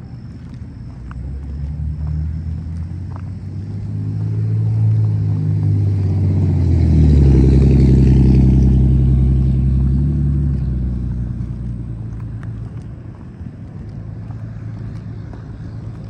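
A motor vehicle on a nearby road passing by, its engine and tyre sound building up, loudest about halfway through, then fading away.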